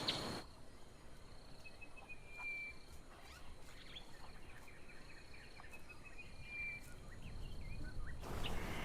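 Faint wild outdoor ambience: a steady high insect drone, with two drawn-out whistled calls, one about two seconds in and one about six seconds in, and scattered faint ticks.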